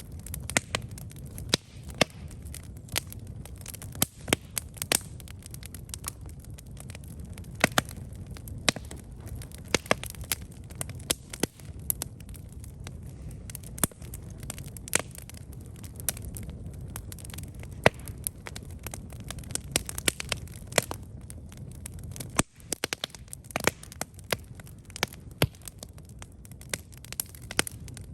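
Wood campfire burning, with irregular sharp crackles and pops over a steady low rumble of flames.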